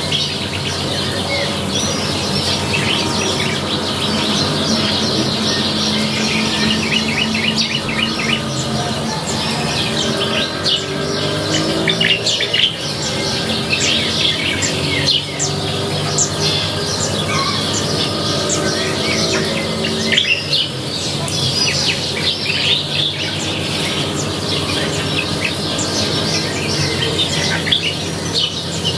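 Many small birds chirping and trilling together in a continuous dawn-chorus-like mix, over a steady low drone.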